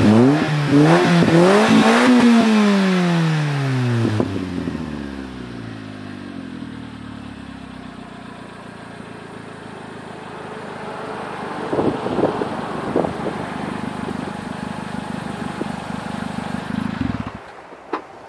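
Subaru Pleo's 660 cc engine exhaling through a homemade all-stainless muffler: revved in quick blips that rise and fall, then a long fall back to a steady idle. The sound cuts off abruptly near the end.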